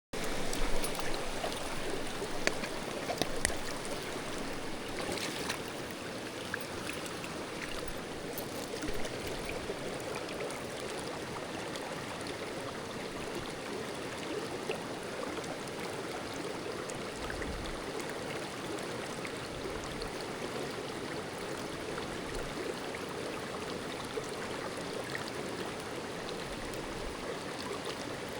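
Mountain stream water rushing steadily, with a few sharp clicks and knocks in the first few seconds.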